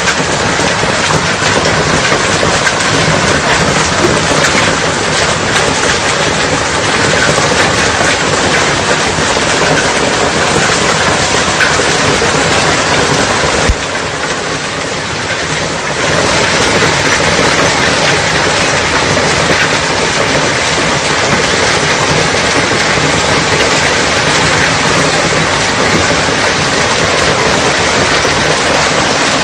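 Hailstorm: hailstones and rain pelting down in a dense, steady noise that drops a little quieter for a couple of seconds about halfway through.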